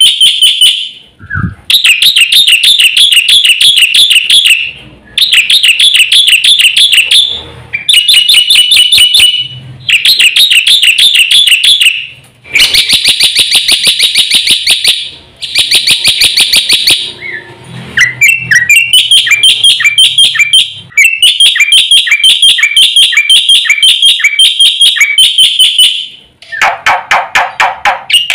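Black-winged myna (jalak putih) singing loud, rapid chattering phrases of fast repeated notes, in bursts of a few seconds with short pauses between them. Near the end comes a lower, differently patterned run of notes.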